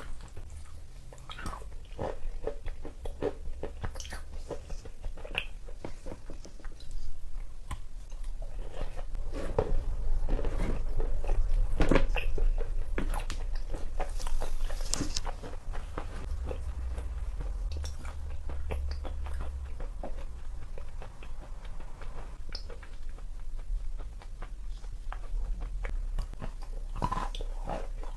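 A big bar of wet chalk being bitten and chewed close up: dense, irregular crunching that grows loudest about ten to fourteen seconds in.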